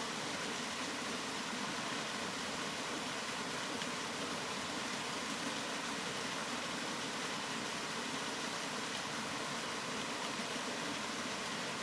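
Steady rain falling, an even hiss with no pauses, swells or separate drips standing out.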